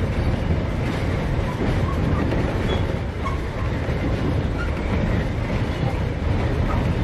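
Narrow-gauge heritage train running along the track, a steady low rumble.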